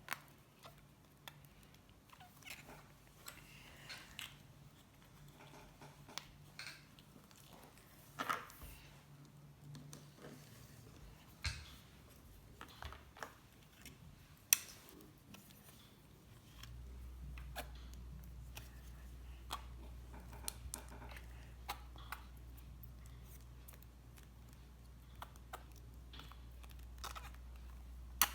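Slime being handled and squeezed, making scattered soft sticky clicks and pops, a few of them sharper. A low steady hum comes in a little past halfway.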